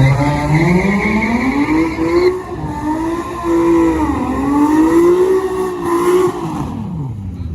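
A car's engine at full throttle on a drag-strip launch, its pitch climbing and then dropping briefly twice at gear shifts. The engine note falls away near the end as the car lifts off.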